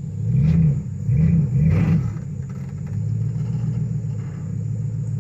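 Truck engine revving in three rising-and-falling surges over the first two seconds, then running at a steady pitch as it strains to pull a tree down.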